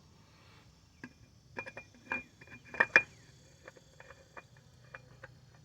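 Light metallic clicks and taps as a new Motorcraft oil filter is handled and threaded onto its mount on the 2.5-litre four-cylinder engine. The clicks bunch together from about a second and a half to three seconds in, then thin out to scattered ticks.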